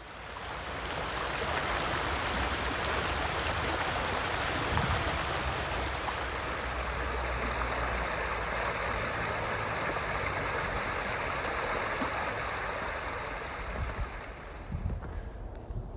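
Running water of a stream, a steady rushing noise that fades in at the start and cuts off shortly before the end.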